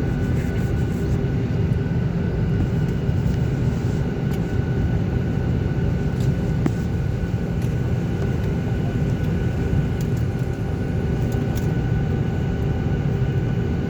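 Steady airliner cabin noise: a low rumble from the engines and air system with several steady whining tones over it, unchanging throughout.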